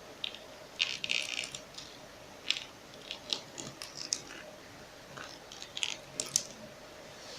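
Faint, irregular clicks and crinkles of a PVC plastic wall sticker being handled, with a denser cluster about a second in.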